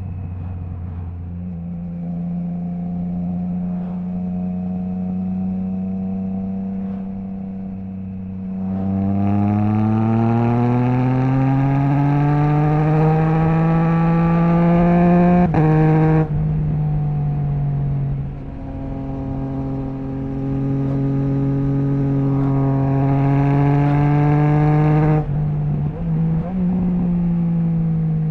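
Triumph Trident 660 inline three-cylinder engine on the move through a Zard stainless full exhaust with the baffle removed. It cruises steadily, then accelerates hard with rising pitch for several seconds. There is a brief cut as it shifts up, then more throttle, and it backs off with short dips and blips near the end.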